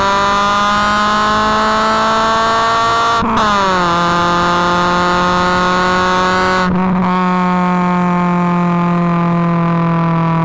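Honda Civic EK's D16Z6 four-cylinder running at high revs through a 4-2-1 header and 2.35-inch custom exhaust, its pitch climbing slowly. About three seconds in there is a short break and a drop in pitch, then another short break near seven seconds, after which the pitch slowly falls.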